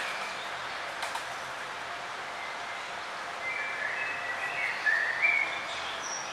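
Small birds chirping over a steady background hiss, with a quick run of short chirps in the second half.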